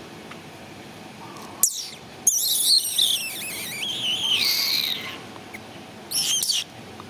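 A bird singing: high, warbling whistled phrases, a short one about a second and a half in, a long wavering one from a little after two seconds to about five, and a brief one near the end.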